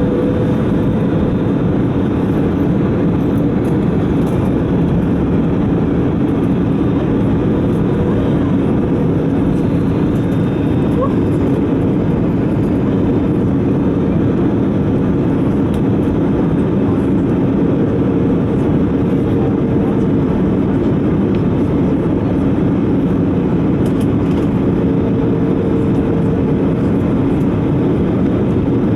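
Airbus A320 cabin noise in flight: the steady drone of the engines and rushing air, with a low hum that holds steady and a higher tone that fades in and out.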